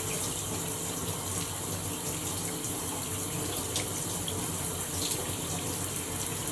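A shower running: a steady, even hiss of water spraying and splashing.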